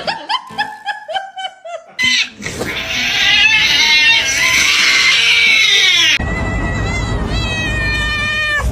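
Cats meowing and yowling. First comes a quick run of short meows, each falling in pitch. About two seconds in, a loud, high, wavering yowl takes over, and after about six seconds a drawn-out yowl follows that cuts off suddenly at the end.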